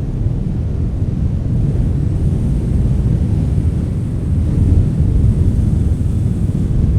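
Strong wind blowing in a steady low rumble that swells a little near the middle, with the buffeting of wind on a microphone.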